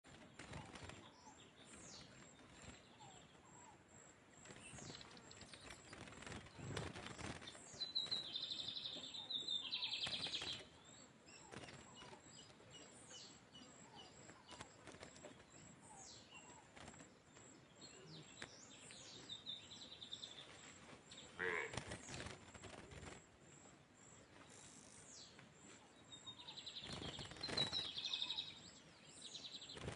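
Lined seedeater (bigodinho) singing short, fast-repeating phrases in three bursts, with scattered faint clicks and knocks in between.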